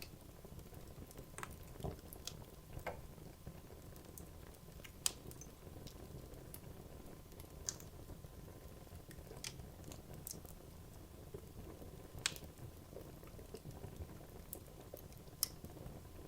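Wood logs burning in a fireplace: a low steady hiss of the flames with scattered sharp crackles and pops, a few louder snaps among them.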